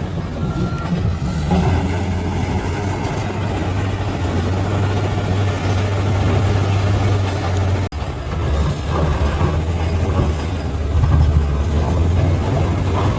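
Bulldozer's diesel engine running steadily under load with a deep drone, with grinding and clatter from the machine's work over it. The sound cuts out for an instant about eight seconds in, then carries on.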